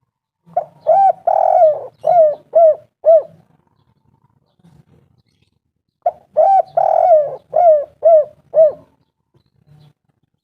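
Spotted dove (tekukur) cooing: two song phrases about five seconds apart, each a run of six or so short arched coos with one longer, drawn-out note near the start.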